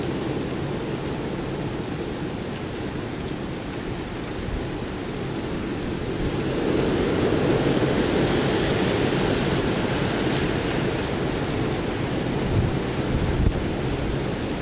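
Hurricane Sandy's storm wind blowing steadily, swelling into a stronger gust about halfway through, with two short low thumps near the end.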